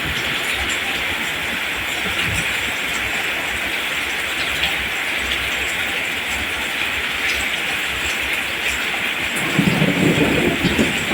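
Steady rain falling on rice plants, an even hiss. Low, uneven rumbling joins in near the end.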